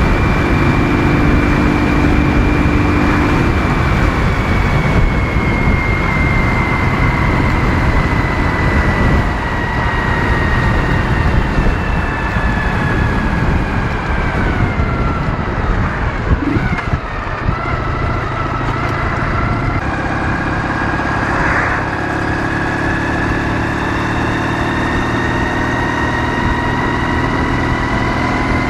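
Ural motorcycle's 650 cc flat-twin engine running under way, with heavy wind and road rush. Its whining tone slowly falls in pitch, drops sharply about two-thirds of the way through, then climbs steadily again.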